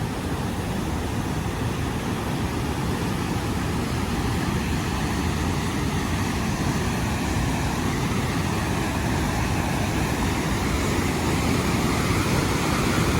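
Steady roar of a large waterfall, an even rushing noise that grows gradually louder.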